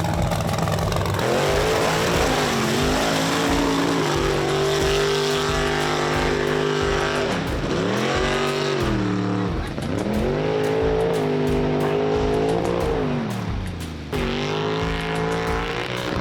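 Mega truck engine running hard under load, its pitch holding high then dropping and climbing back several times as the throttle is lifted and reapplied.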